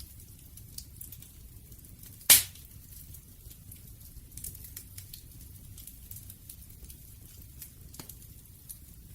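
Wood fire crackling, with small snaps scattered over a low rumble and one loud pop a little over two seconds in.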